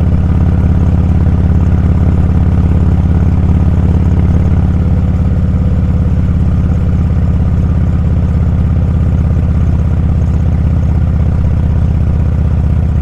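Motorcycle engine running steadily under way, a loud, even low drone with no change in pitch.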